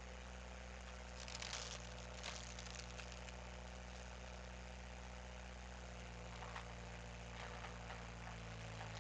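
Skid steer engine running steadily, with scattered short cracks and knocks over it, about a second in and again near the end.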